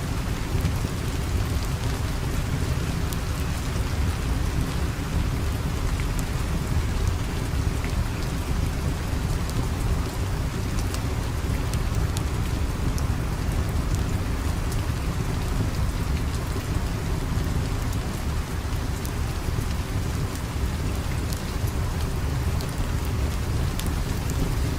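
Steady rain with a strong low rumble underneath and scattered sharp ticks throughout.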